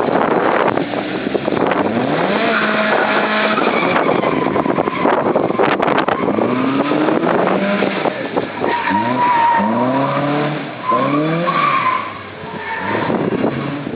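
Westfield kit car's Ford 1.6 16-valve engine driven hard, its note repeatedly rising and dropping as it revs up and shifts, over a steady rushing noise. Tyres squeal in the second half as the car slides.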